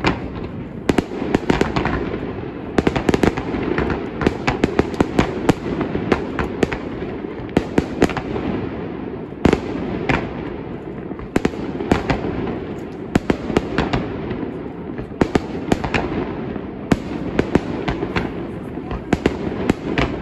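Aerial fireworks display, shells bursting in quick succession: many sharp bangs and crackles, often several a second, over a steady dense background of noise.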